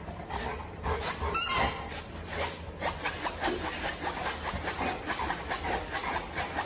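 Rapid, rhythmic rasping scrape, about five strokes a second.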